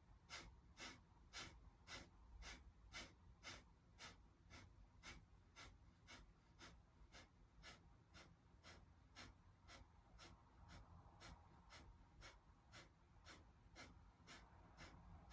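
Kapalabhati breathing: quick, forceful nasal exhalations in a steady rhythm of about two a second, faint.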